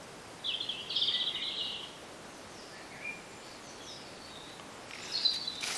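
Small birds chirping in the background over a faint steady hiss, with a rapid high trill lasting about a second and a half, starting about half a second in, and short chirps later on. A brief rustle comes near the end.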